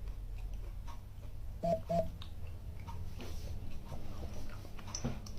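A person chewing raw bird's eye chillies, with faint wet mouth clicks, and two short closed-mouth hums close together about two seconds in.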